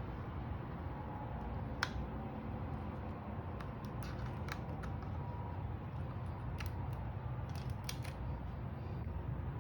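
Scattered faint, sharp clicks, about a dozen in all and clustered near the two-second mark and again around seven to eight seconds in, over a low steady hum.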